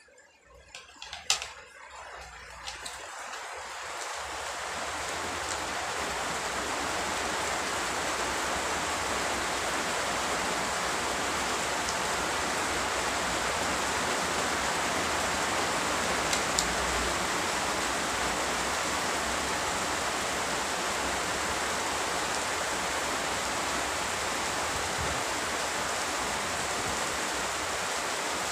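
Rain coming on, swelling over the first few seconds into a steady, even hiss of falling rain. A single sharp click about a second in.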